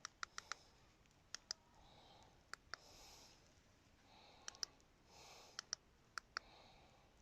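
A dozen or so short, sharp clicks, mostly in quick pairs a fraction of a second apart, with soft hiss between them.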